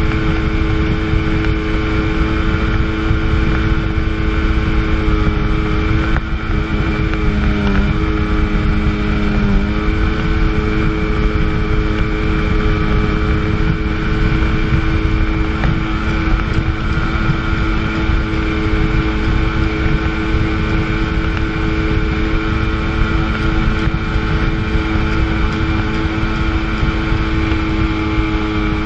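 Jet ski's two-stroke engine running at steady high revs under way, with wind and water rush. The revs dip briefly about seven seconds in and again near ten seconds, then settle back.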